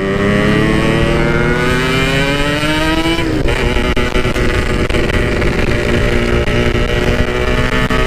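Yamaha RX-King two-stroke motorcycle, bored to 161 cc and fitted with a stock-style Packing Power exhaust, accelerating. Its engine note climbs steadily for about three seconds, drops at a gear change, then runs steadily at a lower pitch.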